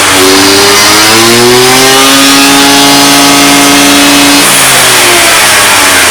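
Honda Dio ZX scooter's small two-stroke engine being revved: the pitch climbs, holds high for a couple of seconds, then drops back toward idle. The engine has just been rebuilt with a new cylinder and reed valve.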